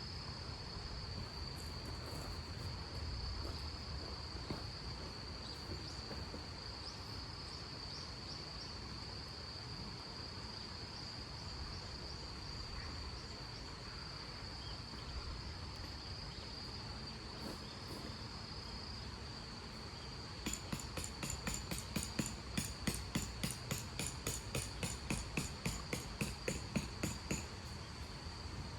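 An insect trills steadily in a high, unbroken tone. About two-thirds of the way through, a run of sharp knocks starts, about three a second for some seven seconds, then stops.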